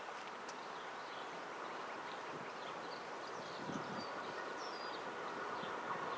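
Distant freight train approaching, a steady rumble slowly growing louder, with a few bird chirps about midway.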